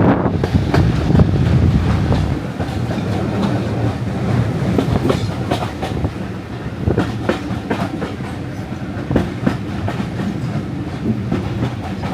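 Diesel-hauled heritage train running along the line: a steady low rumble with the wheels clicking over the rail joints, easing slightly in loudness a couple of seconds in.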